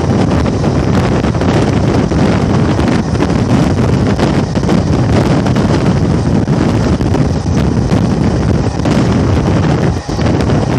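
Wind buffeting the microphone held out of a moving Indian Railways passenger coach, over the steady running noise of the coach's wheels on the track.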